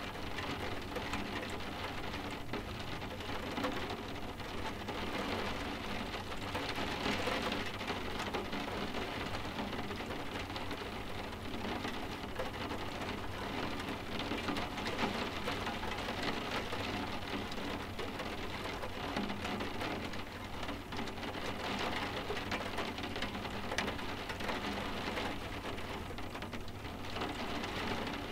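Steady rain falling, with a dense patter of small drop taps that holds even throughout.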